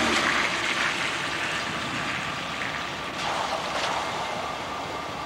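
CSX freight boxcars rolling past on the rails: a steady rumbling hiss of wheels on track, with a few light clicks about three to four seconds in.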